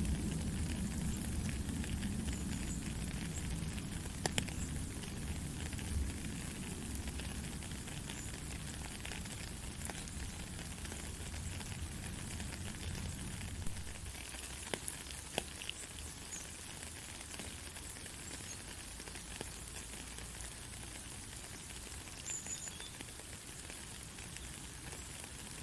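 Steady heavy rain hissing, with scattered individual drops ticking sharply. A low rumble underneath dies away about halfway through.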